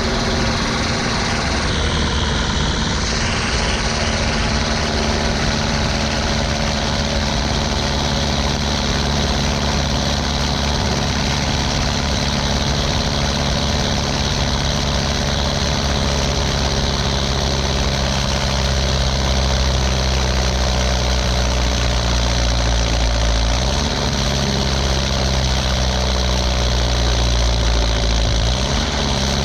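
Ursus 1014 tractor's turbocharged four-cylinder diesel on a straight pipe, running steadily. Its pitch rises briefly and settles back twice near the end.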